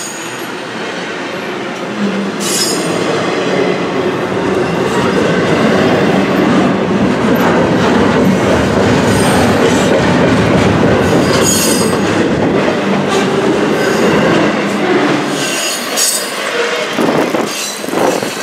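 Double-stack intermodal well cars rolling past close by: a loud, steady rumble of steel wheels on the rails. Several brief high-pitched wheel squeals cut through it.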